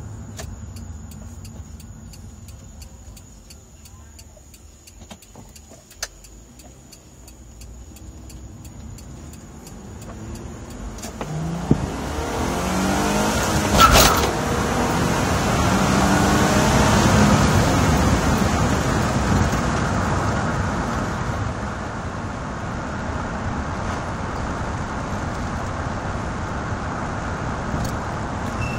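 2003 Nissan Maxima SE's 3.5-litre VQ35DE V6 heard from inside the cabin, running quietly at first. About 11 seconds in it accelerates hard, the engine note climbing in pitch, with a sharp click near 14 seconds. The sound peaks a few seconds later and settles into a steady drone at speed.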